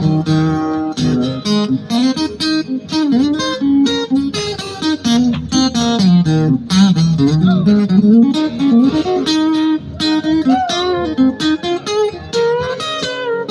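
Country band's instrumental break: a lead guitar solo of quick runs and bent notes over the backing band.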